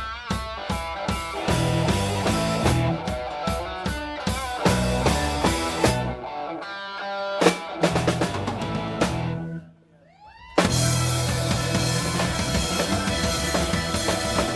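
Rock band playing live on electric guitar, bass and drum kit. About ten seconds in the playing drops almost out, with a few rising guitar glides. The full band then crashes back in loud and dense.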